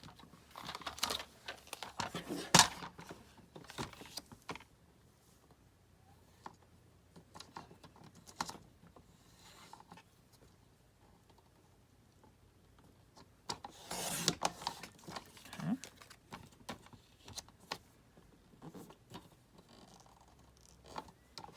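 Light clicks, taps and rustles from handling paper and cardboard pieces at a craft table, in two spells with a quiet stretch in the middle.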